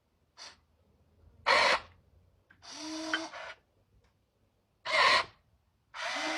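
RC truck electric motor whirring in short throttle bursts, about five of them, with the loudest near a second and a half in and again about five seconds in.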